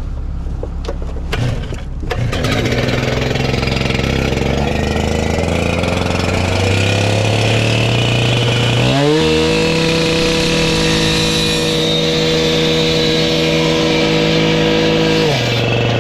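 A gas-powered cut-off saw with a small two-stroke engine idles, is revved up about halfway through, and is held at high speed for about six seconds. It drops back off throttle near the end. Another engine runs steadily underneath.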